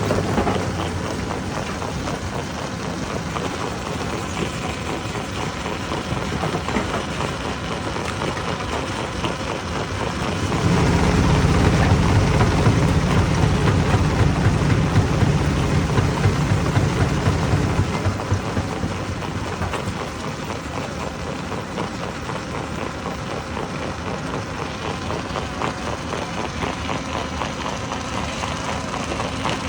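Stone crusher running, with a steady heavy machine drone under a dense clatter of rock. A louder low rumble comes in about ten seconds in and eases off around eighteen seconds.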